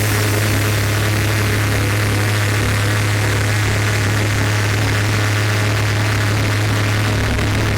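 80cc two-stroke bicycle engine with an expansion chamber running at a steady, high speed under way, its low buzz holding one unchanging pitch over a steady rushing noise.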